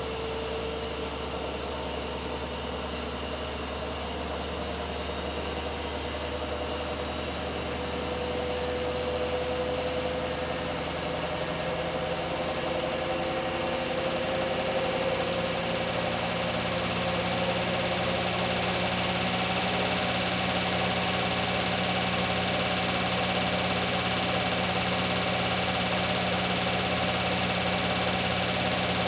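Beko WTK104121W washing machine on a 1400 rpm spin cycle, the drum and motor whirring steadily. Its whine rises slowly in pitch and the sound grows louder as the spin speeds up, with more hiss from about two-thirds of the way in.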